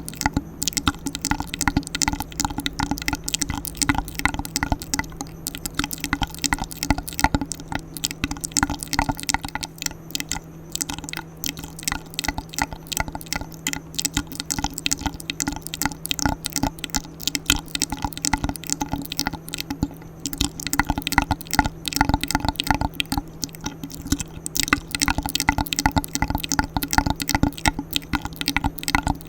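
Close-miked ASMR wet mouth sounds: fast, irregular wet clicks and smacks.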